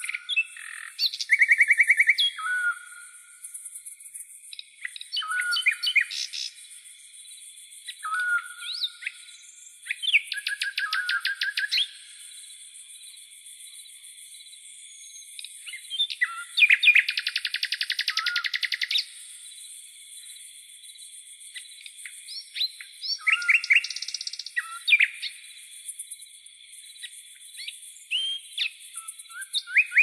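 A songbird singing in separate phrases, each a few seconds of rapid repeated notes and trills with short whistled notes, over a steady high-pitched hiss.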